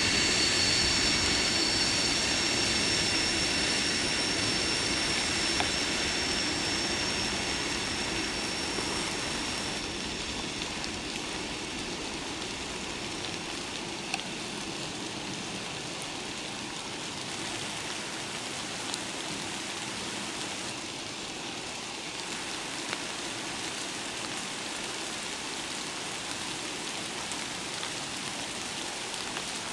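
A loaded ethanol tank freight train receding into the distance, a low rumble with a high steady whine that dies away about ten seconds in. After that, steady rain falling, with a few scattered drips.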